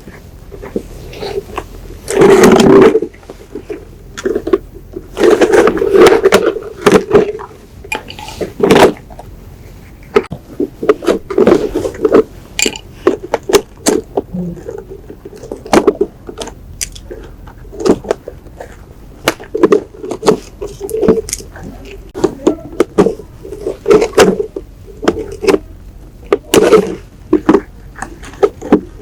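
Hand work on parts: many sharp clicks and knocks with a few short bursts of scraping, the loudest scraping about two seconds in and again around five to seven seconds.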